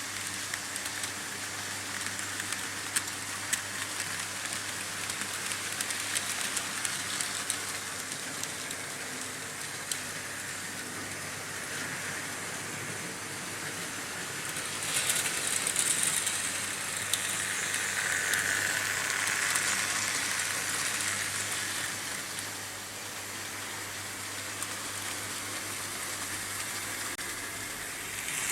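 Märklin H0 model trains running on pressed-metal M-track: a steady metallic rolling rattle with many fine clicks from the wheels over rail joints, getting louder about halfway through as a train runs close by, over a steady low hum.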